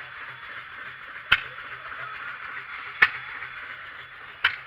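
Sharp knocks, three of them about a second and a half apart, over a faint steady low machine hum and a hiss.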